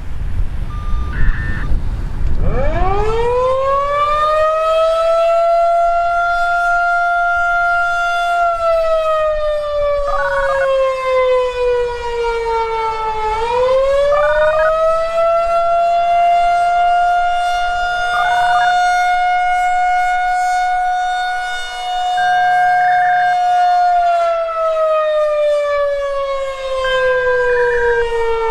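Federal Signal 2001-130 rotating outdoor warning siren starting up on an attack signal. After a low rumble it winds up over a few seconds to a steady high tone, then slowly falls and rises again in long cycles. The rotating horn makes its level swell, and the pitch fluctuates.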